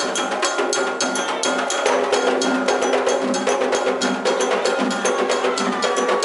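Candomblé ritual percussion: drums and a struck bell playing a fast, steady rhythm. Voices hold notes over the drumming.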